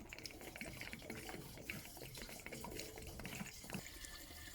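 Diesel fuel pouring from a canister through a filler spout into a mini excavator's fuel tank, with irregular glugs; the flow steadies about four seconds in.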